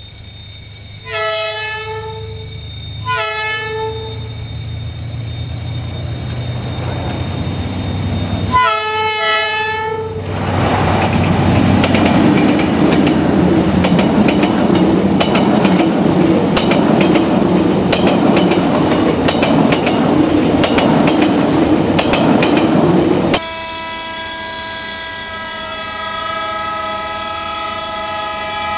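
Diesel locomotive's multi-tone horn sounding three blasts: two short ones about two seconds apart, then a longer one about nine seconds in. It is followed by the passenger train passing close by, a loud rumble of wheels on rail with clatter. After a sudden cut, a second diesel locomotive's horn sounds one long steady blast.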